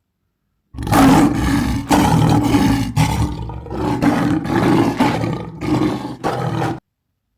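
Lion roaring: a series of roars about a second apart, the first the loudest, cutting off suddenly.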